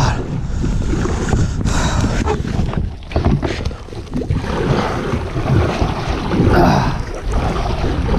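Wind buffeting a chest-mounted microphone on a kayak, a continuous low rumble, with scattered knocks and rustles from handling gear in the boat.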